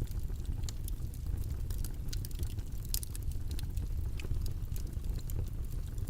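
Steady, deep rumbling background noise with small irregular crackling clicks scattered through it, several a second.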